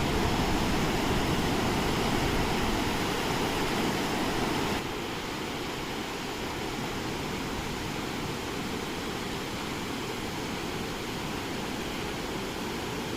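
Steady rushing noise of ocean surf breaking on the beach, dropping a little in level suddenly about five seconds in.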